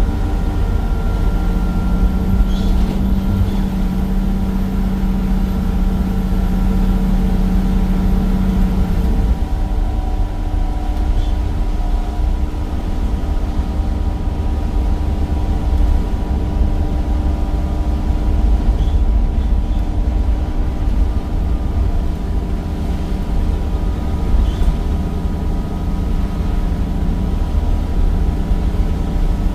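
Cummins diesel engine and ZF automatic gearbox of a Temsa Avenue bus running, a steady deep rumble with several steady tones over it; a lower tone swells for several seconds near the start and again near the end.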